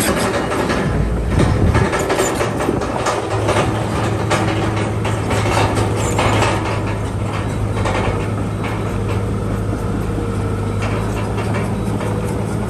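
Crawler bulldozer's diesel engine running with a steady hum, its steel tracks clattering and clanking.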